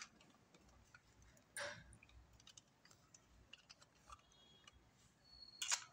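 Faint small clicks and scrapes of a screwdriver and hand work on the screws of a wall power socket. There are two louder short scrapes, about a second and a half in and near the end.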